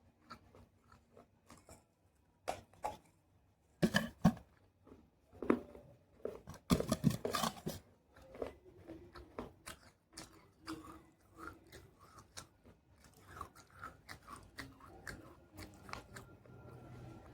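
Someone biting and chewing dry pieces of baked clay pot, giving a run of sharp crunches and crackles. The loudest crunches come about four and seven seconds in.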